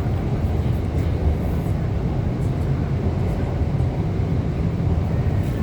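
Metro train running, heard from inside the carriage: a steady low rumble of wheels and running gear.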